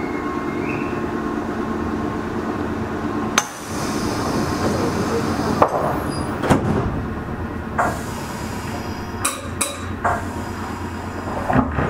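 Inside a Meitetsu 6000-series electric train car on the move: a steady rumble and hum of the running train, broken by about eight sharp, irregularly spaced clanks.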